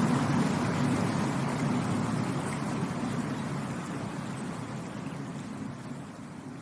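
Rushing water of a stream or waterfall, a steady noisy rush strongest in the low range, fading out gradually.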